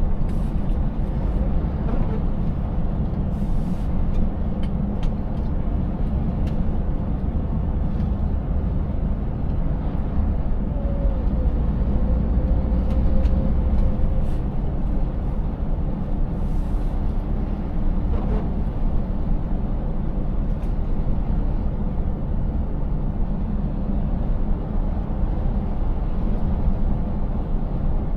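Scania 590S V8 truck engine running steadily under way, a low, even rumble mixed with road noise, with a few faint clicks and knocks scattered through it.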